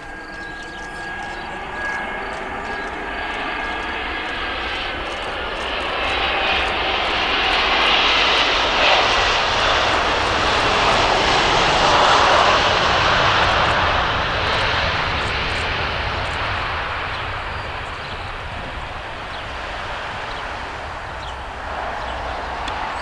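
Airliner passing close by under engine power: the engine noise grows to a peak about halfway through and then fades away, with a thin high whine in the first few seconds.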